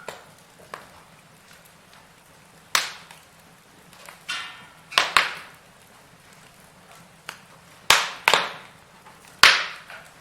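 Firewood burning in a fireplace, popping and crackling: about seven sharp pops over a faint steady hiss, the loudest near the end, with a brief hissing whistle about four seconds in.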